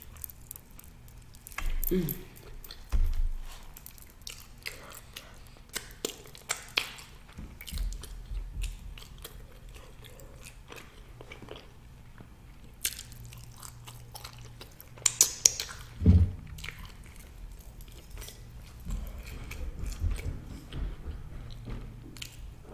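A person chewing a mouthful of food close to the microphone: irregular wet clicks and smacks, with a couple of brief closed-mouth hums. A burst of louder sharp clicks comes about fifteen seconds in.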